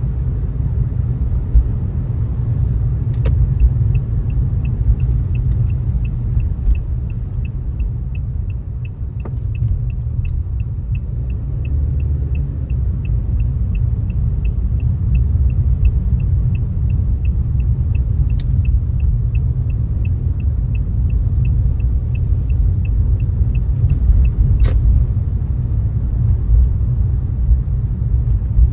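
Car road noise: a steady low rumble of tyres on a wet road, with a turn-signal indicator ticking evenly about two and a half times a second from a few seconds in until near the end, a sharp click at each end of the ticking.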